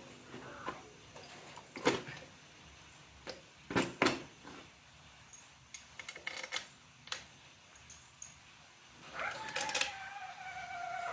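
Scattered light clinks and knocks of tools and metal engine parts being handled while a Honda GL100 engine is assembled. Near the end comes a drawn-out tone that slowly falls in pitch.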